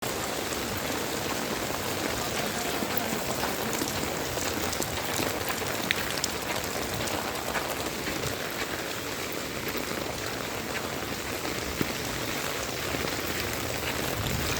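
Heavy rain falling steadily, a constant hiss with scattered sharp drop ticks.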